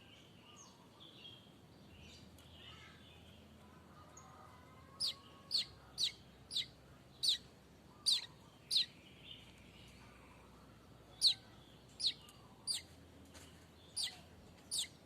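Manyar kembang weaver bird calling: faint soft chatter at first, then a run of sharp, high chirps that each sweep downward. About seven come in quick succession, then after a short pause about five more.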